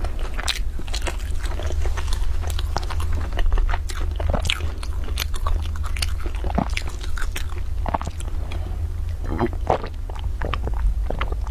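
Close-miked mouth sounds of someone biting and chewing crunchy food: many short, irregular crackles and crunches over a steady low hum.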